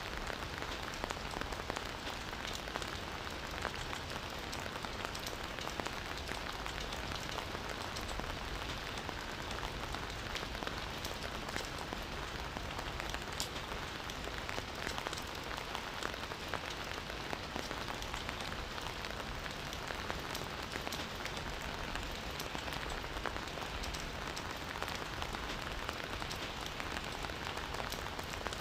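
Steady rain falling in a forest, a continuous hiss with many individual drops pattering on leaves and surfaces.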